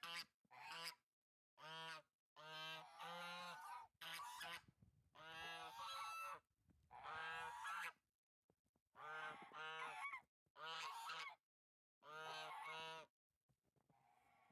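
Domestic geese honking, a dozen or so calls in short runs, falling quiet near the end.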